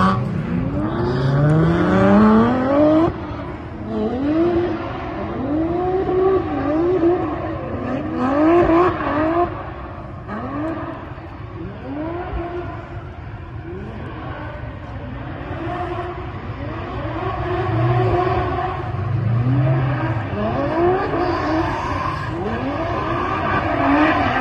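Drift car engines revving hard over and over, each rev a pitch that climbs and then drops back, the rises coming every second or two and sometimes overlapping.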